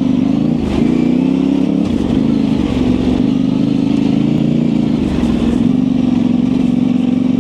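Yamaha Ténéré 700 parallel-twin engine through an aftermarket high exhaust, pulling at steady part throttle with small rises and dips in revs.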